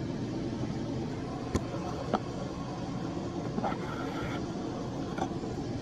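Steady background rumble and hiss, with two sharp clicks about a second and a half and two seconds in, and a few faint brief knocks near the middle.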